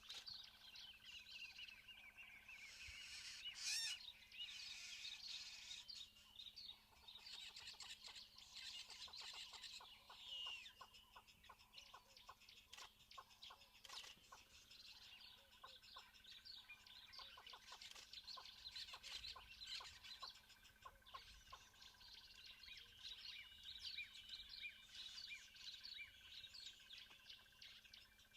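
Faint chorus of bird calls and chirps, with clucking, fowl-like calls and a steady thin high tone underneath.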